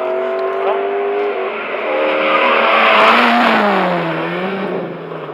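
Race car engines at high revs, with one car passing close by about three seconds in: the sound swells to its loudest with tyre and exhaust noise, then the engine note drops as it moves away.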